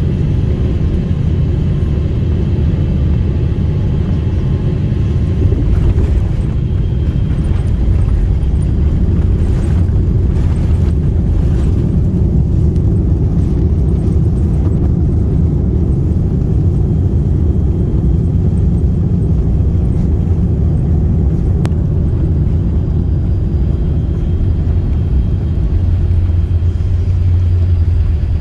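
Airliner cabin noise heard from a passenger seat: a loud, steady low rumble of engines and airflow.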